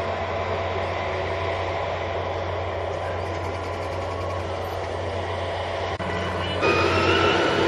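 Canadian Pacific Holiday Train's freight cars rolling past with a steady rumble of steel wheels on rail and a low hum. About six and a half seconds in it gets louder, and thin high squealing tones from the wheels join in.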